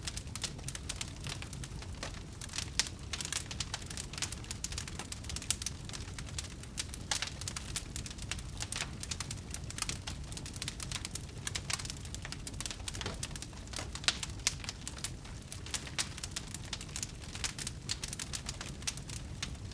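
Wood fire in a fireplace crackling: a dense run of small sharp crackles over the low steady rumble of the flames, with a few louder pops.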